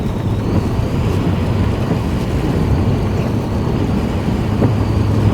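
Steady engine and road hum inside a vehicle's cabin.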